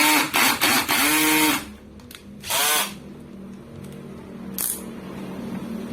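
Power screwdriver motor whirring in short bursts, speeding up and slowing down with each trigger pull, several times in the first second and a half and once more near three seconds.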